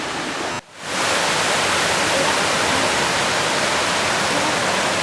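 Waterfall rushing steadily. About a second in it cuts out briefly, then comes back slightly louder.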